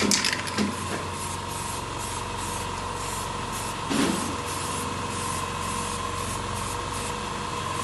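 Paint being sprayed in short, repeated hissing bursts, about two or three a second, over a steady background hum.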